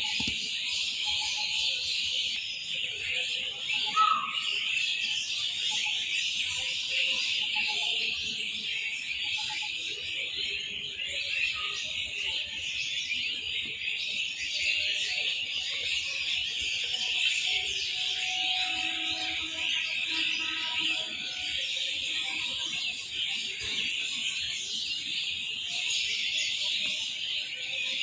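A dense, continuous chorus of many small birds chirping and chattering, high-pitched and unbroken, with a few lower single calls standing out now and then.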